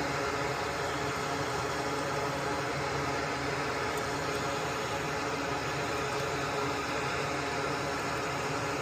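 Soldering fume extractor fan running with a steady whir.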